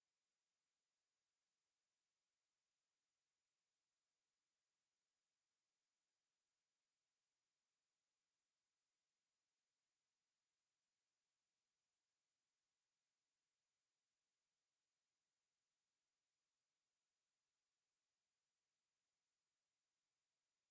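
A steady, pure 8878 Hz sine-wave test tone, one unchanging high-pitched whistle-like pitch played as a speaker test and speaker-cleaning tone.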